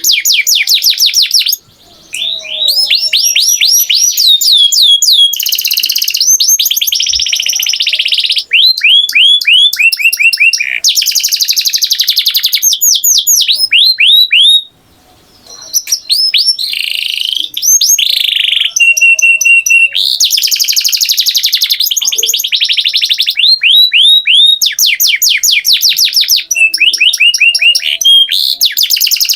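Canary singing a long, loud song of rapid trills and fast repeated sweeping notes, phrase after phrase, with two short pauses, one near the start and one about halfway through.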